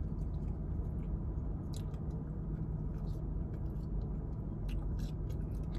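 A person chewing a mouthful of fried vegan chicken wing, with scattered soft crunches and mouth clicks, over a steady low hum in the car cabin.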